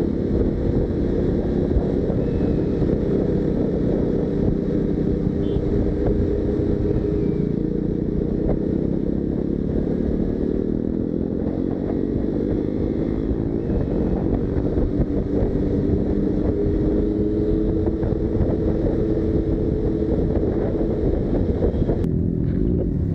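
Motorcycle engine running on the move, its pitch drifting gently up and down as the throttle eases and opens, with wind rushing over the microphone. It breaks off abruptly near the end.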